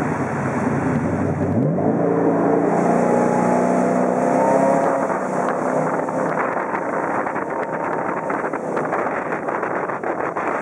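Jet boat engine revving up about a second and a half in, then running hard at speed over a steady rushing of water and wind.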